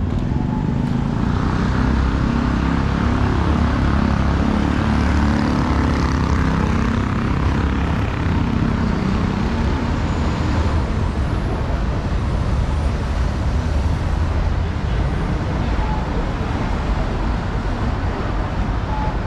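City road traffic: a steady rumble of vehicles passing on a busy street, a little louder in the first half.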